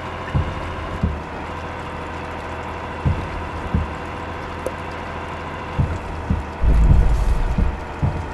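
Truck on the move, with a steady low engine drone and irregular low thumps, and a heavier rumble of about a second near the end.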